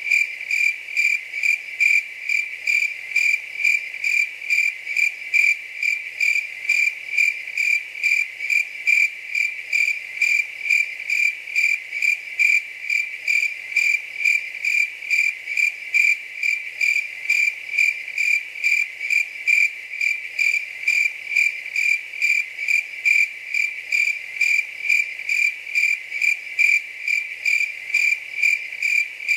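A cricket chirping steadily in a high, even tone, about two chirps a second, the rhythm unchanging.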